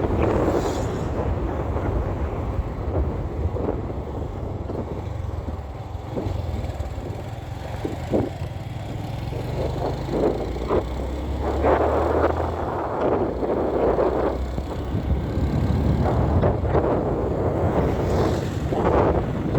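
Motorcycle engine running at riding speed, its low drone shifting in pitch as the bike changes speed, with wind gusting on the microphone.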